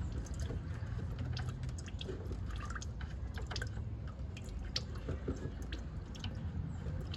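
Coolant dripping slowly and irregularly from a truck's radiator as it is being drained, over a low steady hum.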